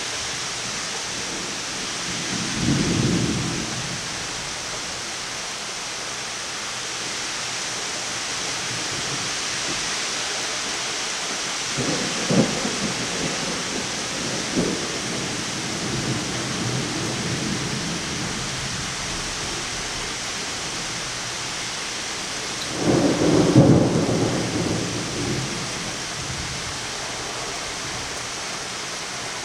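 Steady rain falling through a severe thunderstorm, with thunder rumbling three times: briefly a few seconds in, as a few sharp cracks and rumbles around the middle, and loudest about three quarters of the way through.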